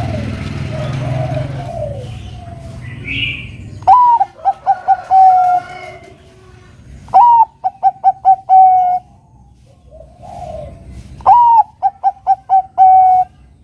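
Zebra dove (Bangkok-type perkutut) singing its cooing song, three phrases about three and a half seconds apart. Each phrase is a rising opening note, then a quick run of short notes and a longer final note. A fainter wavering sound over a low hum comes before the first phrase.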